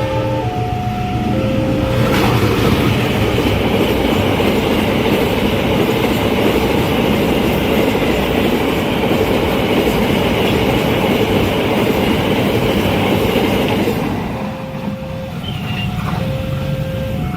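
A train passing at speed over a level crossing: loud rumble and clatter of wheels on rails from about two seconds in, lasting about twelve seconds. The crossing's warning alarm sounds in two alternating tones before the train arrives and is heard again after the train has passed.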